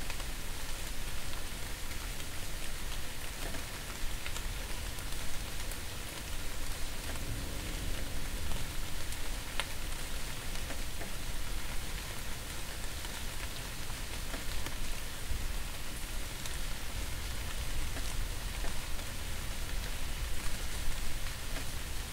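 Steady rain falling, an even hiss sprinkled with small ticks of individual drops and a low rumble beneath.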